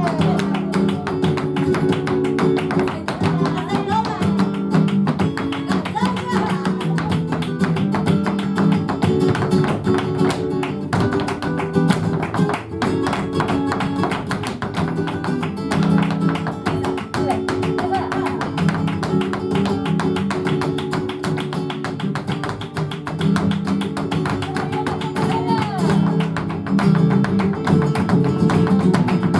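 Flamenco guitar playing a guajira, with the dancer's footwork tapping sharply over it.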